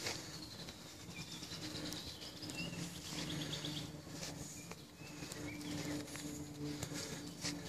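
Birds chirping: short chirps and a quick trill, over a low steady hum, with scattered clicks.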